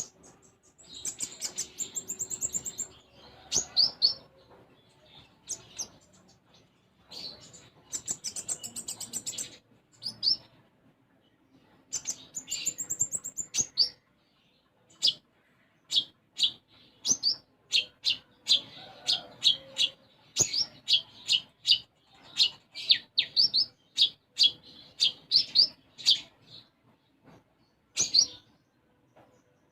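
Caged konin songbird singing: three bursts of rapid, high trilling, then a long run of sharp separate chirps at about two a second. Its song includes mimicked tree sparrow (burung gereja) calls.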